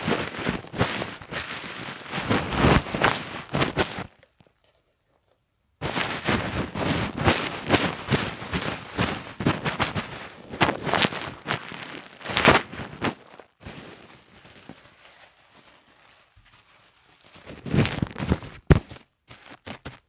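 Bubble wrap being squeezed and popped by hand: rapid crackling pops mixed with plastic crinkling. There is a dead-silent break of about two seconds a few seconds in, and the popping thins out for a few seconds before a last burst near the end.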